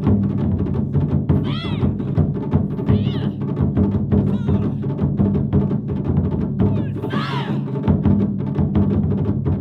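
Japanese taiko drum ensemble playing a fast, dense rhythm of strikes. Short rising-and-falling calls cut in over the drumming a few times.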